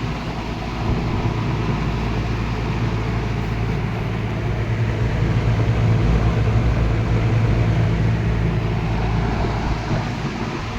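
Early-1960s Eskimo 20-inch single-speed all-metal box fan running: a steady electric motor hum under a rush of air from the blades. It grows somewhat louder for a few seconds in the middle.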